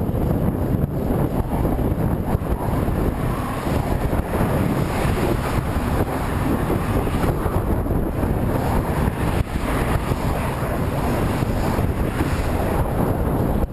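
Headwind buffeting the microphone of a camera carried on a moving bicycle: a steady, loud rush of wind noise, heaviest in the low end.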